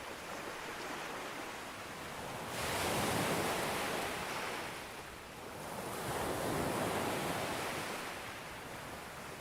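Sea waves breaking on a beach: a wave surges in and washes up about two and a half seconds in, and a second one follows about three seconds later.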